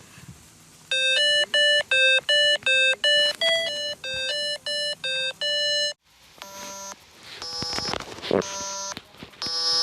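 A rapid run of short, clear beeping notes at shifting pitches, about four a second, breaking off about six seconds in, followed by several buzzy tones.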